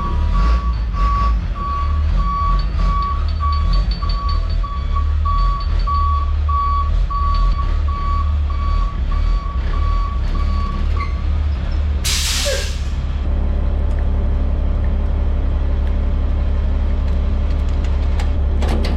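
Heavy truck backing up with its reversing alarm beeping over the running engine for about eleven seconds, then a sharp air-brake hiss about twelve seconds in, after which the engine runs on steadily.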